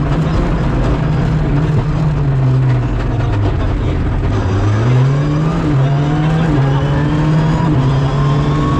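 Rally car engine heard from inside the cabin at full speed. The revs drop as it brakes for a bend a few seconds in, then climb again as it accelerates hard out of it.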